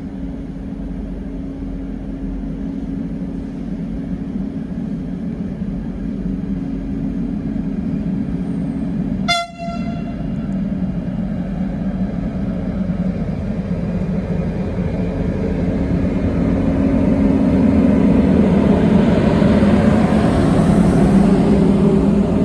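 Electric locomotive hauling a container freight train, approaching and running past close by; its rumble grows steadily louder through the second half. A single short horn toot sounds about nine and a half seconds in, over a steady low hum.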